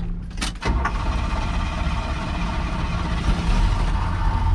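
1969 Chevrolet El Camino's 350 V8 starting: it catches after a moment, about two-thirds of a second in, then runs steadily and a little louder. It has an exhaust leak that the seller puts down to the exhaust donut gasket.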